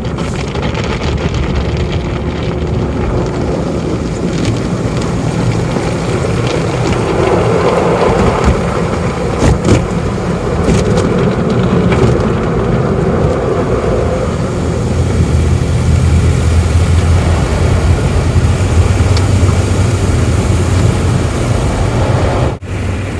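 Automatic car wash equipment running around the car, heard from inside it: a loud, steady rush of spraying water and machinery, with a few knocks in the middle and a low hum later on.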